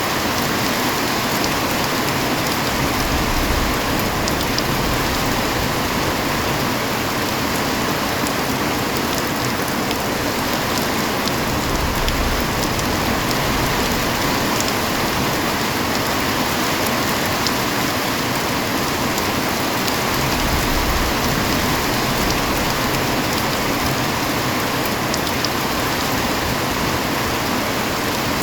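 Heavy rain falling steadily, a dense even hiss with scattered drop ticks and a low rumble that swells and fades now and then.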